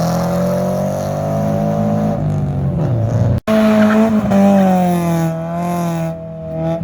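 Car engine running at raised revs, its note held and drifting slowly in pitch. It breaks off suddenly about three and a half seconds in, and a second engine note follows that wavers up and down.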